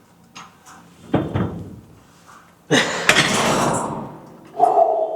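Heavy thuds and knocks of gym weights being handled: a sharp thud about a second in, a longer, louder clattering noise, then a short ringing tone near the end.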